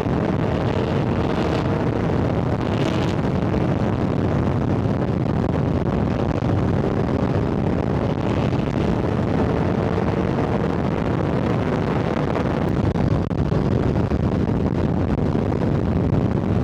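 Superbike ridden at highway speed: steady wind rush over the microphone with the engine running underneath.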